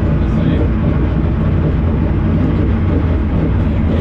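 Steady low rumble of a vehicle running at an even pace, with no revving.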